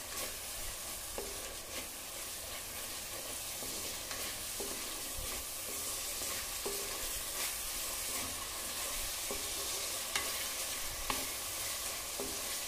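Ginger, garlic and coriander paste with spices sizzling steadily in hot oil in a clay pot as it is stirred and sautéed with a wooden spatula, which now and then taps lightly against the pot.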